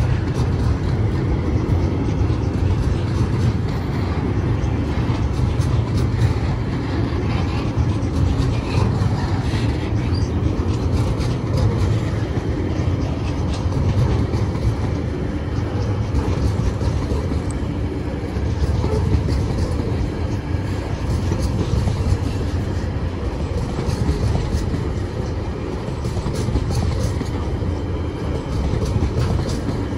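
Freight train wagons rolling past, loaded log wagons and then container flats: a steady low rumble of steel wheels on the rails with light clicking running through it.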